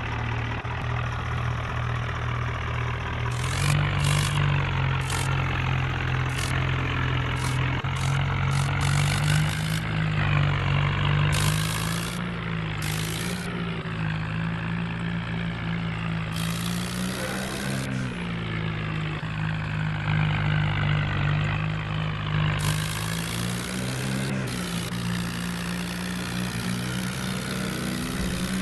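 Diesel tractor engine running at a fairly steady speed, its pitch rising and falling slightly now and then, with short bursts of hiss over it.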